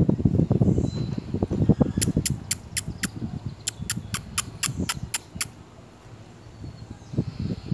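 Caged bullfinch giving a quick series of about a dozen sharp, clicking call notes, with a short break partway through, over a low rumbling background noise.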